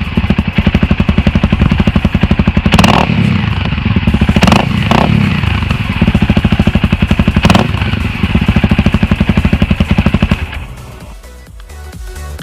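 Honda CRF250L single-cylinder four-stroke with a full FMF exhaust (Megabomb header and Q4 silencer) running hard, a steady rapid stream of exhaust pulses broken by a few short sharp cracks. About ten seconds in the engine gives way to electronic music with a steady beat.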